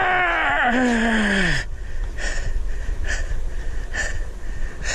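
A person's long, strained vocal groan that slides down in pitch and stops about a second and a half in, made while heaving up a very heavy fish. It is followed by short, regular breaths about once a second.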